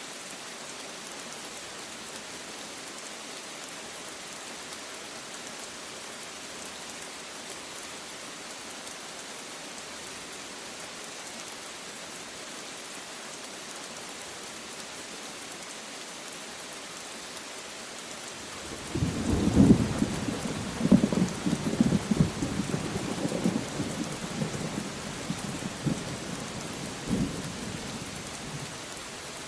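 Steady rain falling, with a thunderclap about two-thirds of the way in: a loud crackling rumble that rolls on for several seconds and then fades back under the rain.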